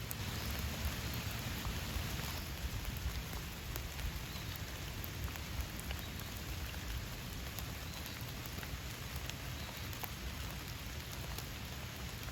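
Steady rain falling on surfaces, a continuous patter with distinct drops ticking through it, slightly heavier for the first couple of seconds.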